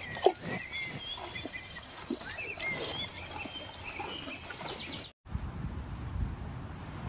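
Small birds chirping and twittering over outdoor background noise, with one short, loud sound about a third of a second in. After about five seconds the sound cuts to a steady rushing noise with no chirps.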